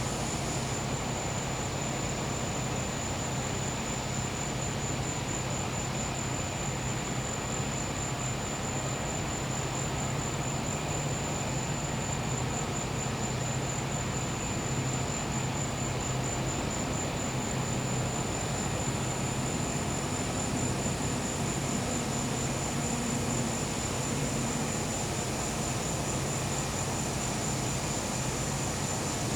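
Steady hum of a gas-powered generator running, with a continuous high, finely pulsed trill of crickets over it.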